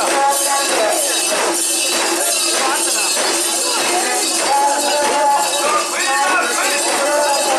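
Crowd of mikoshi bearers chanting and singing together while carrying the portable shrine, with the continuous metallic jingling and clinking of the mikoshi's hanging metal ornaments.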